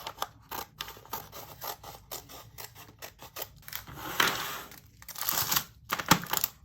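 Scissors cutting: a run of short, irregular snips, with two longer rustling stretches about four and five and a half seconds in.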